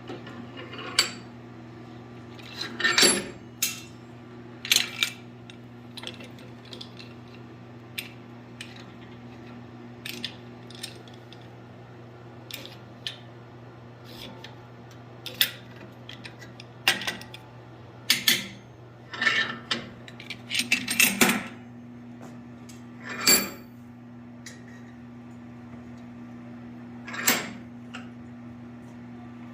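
Irregular metallic clinks and clanks of steel tools and workpieces being handled and set down while the ends of forged steel bars are twisted flat. There is a busier run of clanks a little past the middle, over a steady low hum.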